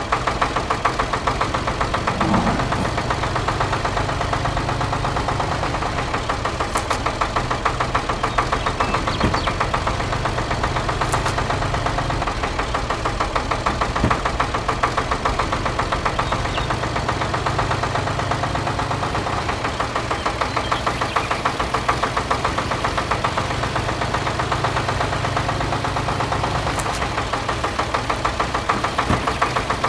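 Diesel tractor engine idling steadily with a fast, even knocking chug.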